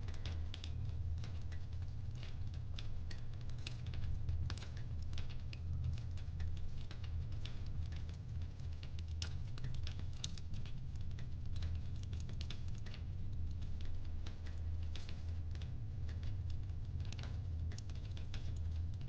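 Wood fire crackling, with irregular small pops and snaps over a low steady rumble.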